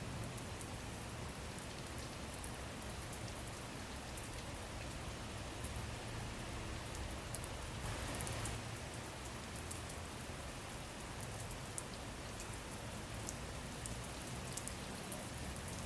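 Steady rain falling, a soft even hiss with faint scattered drop ticks, swelling slightly about halfway through.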